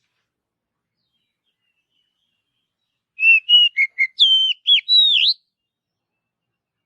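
Oriental magpie-robin singing: a quick string of clear whistled notes, some gliding up or down, lasting about two seconds and starting about three seconds in.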